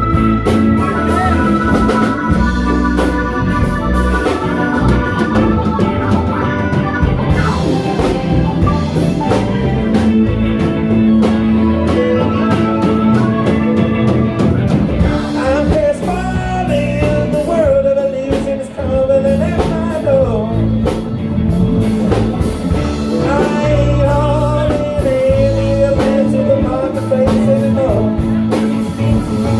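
Live band playing a blues-rock song on drums and guitar, with a lead voice singing from about halfway through.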